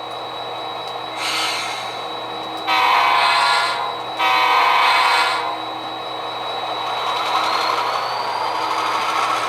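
Sound-equipped HO scale model diesel locomotive playing through its small speaker: the engine idles, a brief air hiss comes about a second in, then two long horn blasts. After them the engine slowly revs up as the train pulls away.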